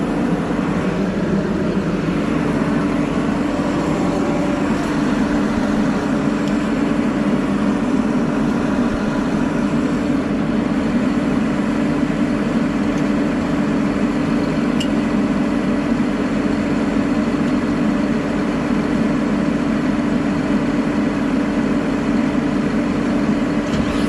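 Heavy diesel engine of a rubber-tired logging machine running steadily, just after being jump-started with dead batteries.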